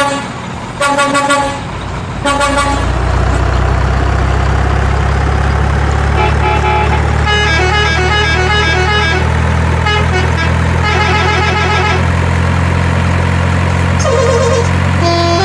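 Truck horn giving a few short toots, then a heavy truck engine running steadily. From about six seconds in, a tune of short stepping horn notes plays over the engine.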